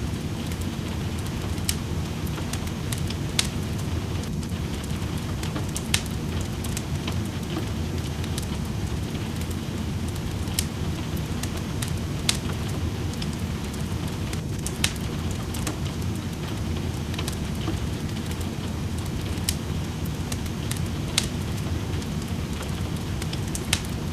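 Wood fire crackling in a fireplace, sharp pops every second or two, over a steady low rushing of rain.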